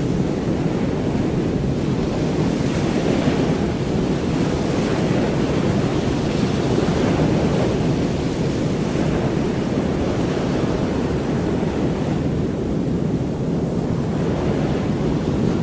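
Ocean surf in a steady low rush, swelling and easing every few seconds.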